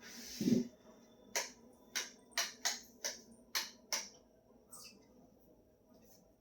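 A series of about eight sharp, short clicks and taps at uneven intervals, the sound of hard objects being handled and knocked together, with a brief low thud near the start.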